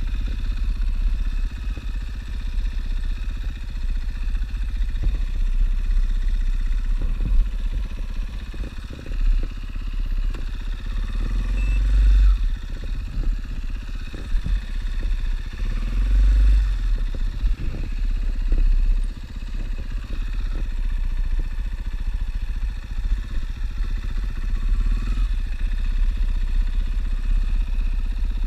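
Single-cylinder 450 cc dual-sport motorcycle engine running on the move, rising in pitch briefly twice as it revs, under a heavy low rumble, with scattered light clatter.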